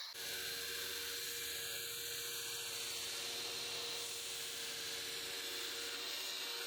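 An electric power tool running steadily, with a constant motor hum and a strong even hiss.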